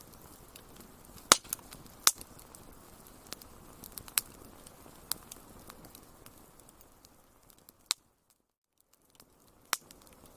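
Wood fire crackling in a fireplace: irregular sharp pops and snaps, about five loud ones, over a soft steady hiss. The sound drops out completely for under a second near the end.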